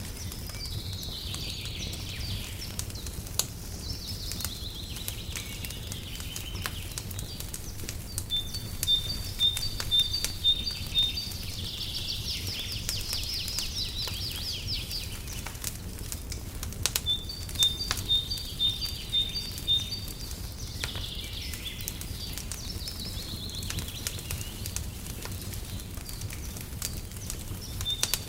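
A songbird sings the same phrase about every nine seconds: a quick run of evenly spaced high notes, then a lower warbling trill. Underneath, a wood fire crackles with scattered sharp pops over a steady low rumble.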